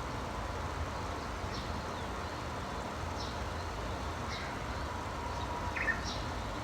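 Small birds giving short, high chirps every second or so over a steady low rumble.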